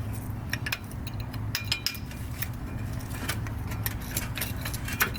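Light metallic clinks and taps of rear brake parts being handled and pulled out of the caliper bracket, several irregular sharp clicks. A steady low hum runs underneath.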